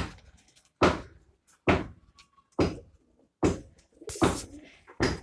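A regular series of sharp thumps, a little more than one a second, each fading quickly.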